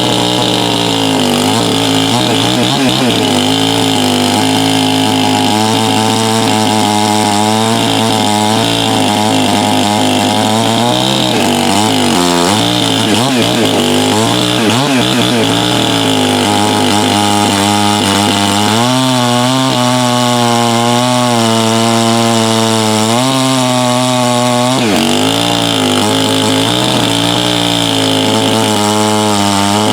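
Farmertec MS 660 clone two-stroke chainsaw with a 36-inch bar and its exhaust port lowered 1 degree, running hard at high revs, apparently cutting wood. The engine pitch wavers under load and sags briefly twice, about 12 and 25 seconds in, before climbing back.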